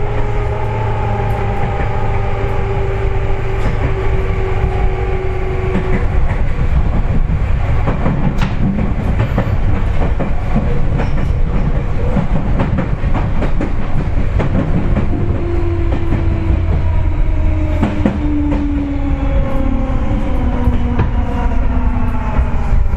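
Seibu 4000 series electric train heard from inside the passenger car, running on the rails with wheel clicks over rail joints and a steady low rumble. Motor and gear whine slowly falls in pitch as the train slows on its approach to the next station.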